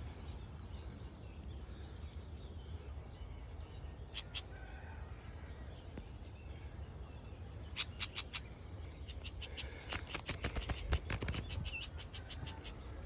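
A small songbird, a blackcap caught in a mist net, giving a run of hard, rapid clicking tack calls, sparse at first and fast near the end, over a low wind rumble.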